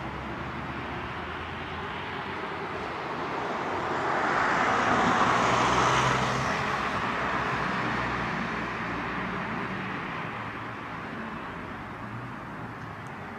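A vehicle passing by: a steady rushing noise with a low engine hum that swells to its loudest about five seconds in and then slowly fades.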